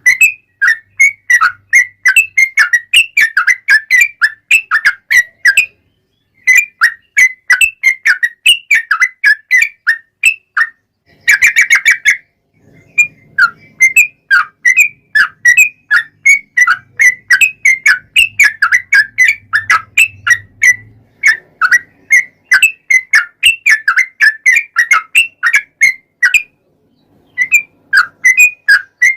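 Yellow-vented bulbul (trucukan) singing a long, fast run of bright, whistled chirps, about three to four notes a second, broken by two short pauses and one dense flurry of notes. This is the extended 'ropel panjang' song used as a lure to make other bulbuls answer.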